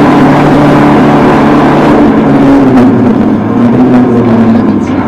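Citroen AX Sport rally car's engine running under load at speed, heard from inside the cabin, its pitch wavering slightly, over tyre and road noise from the snowy stage.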